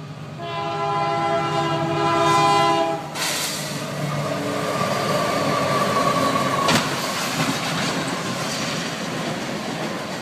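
Train horn sounding a steady multi-tone blast for about three seconds, then the loud rushing and clatter of a train going past, with one sharp crack partway through.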